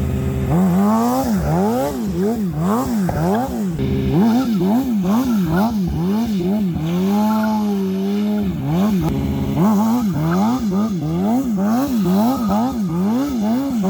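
Motorcycle engine revved up and down in quick pulses while the bike spins donuts, its pitch rising and falling about twice a second. About halfway through it holds a steady pitch for a second or so before the pulsing resumes.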